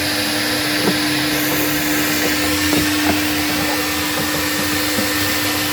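Coin-operated car-wash vacuum running steadily: a constant rushing hiss of air through the hose with a steady hum, and a few light knocks.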